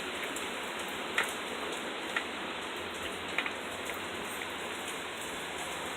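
Steady hiss of rain and storm wind, with a few sharp taps of drops landing, about one, two and three seconds in.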